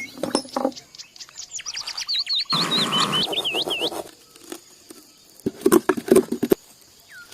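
Small birds chirping in a fast run of quick, repeated chirps. A burst of rustling comes partway through, and a few sharp knocks follow near the end.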